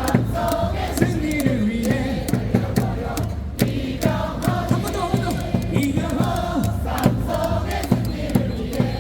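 Baseball crowd singing a cheer song in unison over loud stadium music, with sharp claps or thundersticks struck on the beat.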